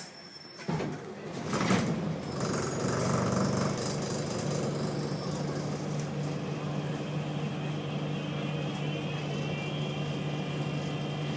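Wright Solar bus's diesel engine starting up just under a second in, then idling with a steady hum. A higher, steady buzzing tone comes in near the end: the buzz this bus makes whenever its engine is on.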